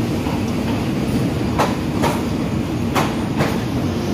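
Coaches of a long passenger train rolling past on the rails. It makes a steady rumble, with a sharp wheel clack over the rail joints every half-second to second.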